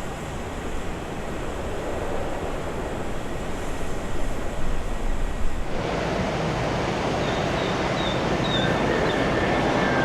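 Jet airliner noise: a steady roar from a Boeing 787-10's engines that gives way abruptly, about six seconds in, to the roar of an Airbus A320-200, with faint high whistling tones over it.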